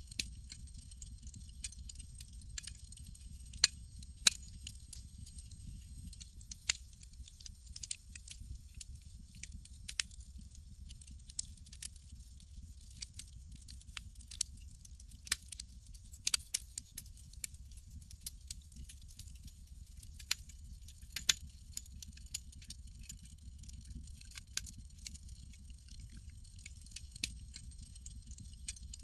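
Campfire crackling: irregular sharp pops and snaps, a few of them loud, over a steady low rumble and a faint high hiss.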